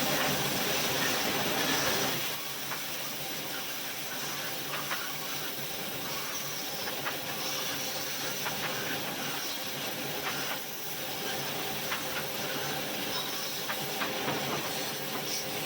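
Wood lathe running with a tool held against the spinning wood: a steady hiss over a low motor hum, with scattered small ticks. It is louder for the first two seconds.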